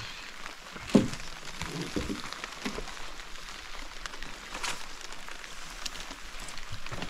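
Rain falling, many small drops ticking steadily, with a single sharp knock about a second in.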